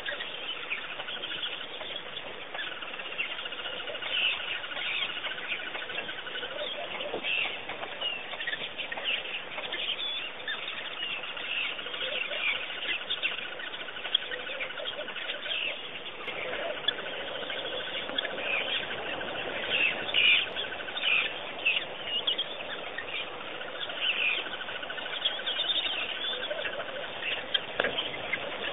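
A chorus of wild birds chirping and calling. Many short high calls overlap with long repeated trills, and lower calls come and go.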